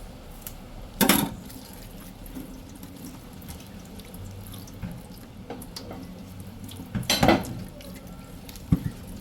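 Water from a kitchen tap splashing in the sink in two short bursts, about a second in and about seven seconds in, as vegetables are rinsed. A sharp knock comes near the end.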